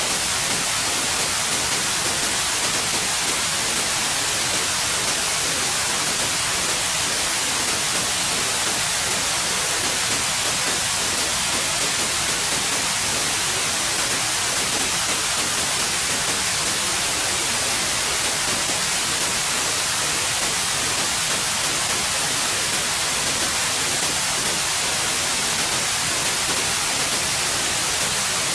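Steady synthetic white noise, an even hiss with no change in level or texture.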